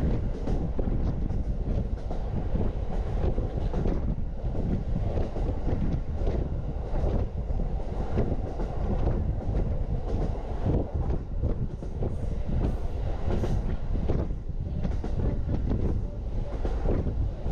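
Norokko sightseeing train's carriage running along the track: steady low wheel-on-rail noise with repeated clicks as the wheels pass over rail joints.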